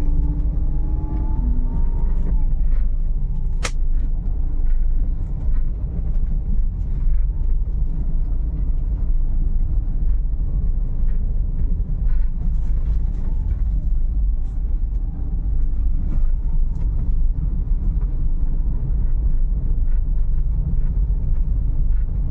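Volkswagen Polo running with a steady low rumble during a trial of its freshly serviced steering, with one sharp click about four seconds in.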